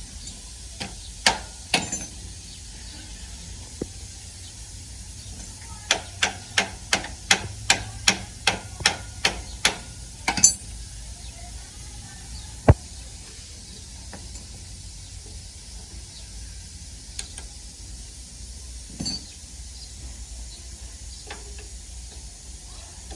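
Hammering on a motorbike during a repair: a run of about a dozen sharp knocks at two to three a second, with a few single knocks before and after.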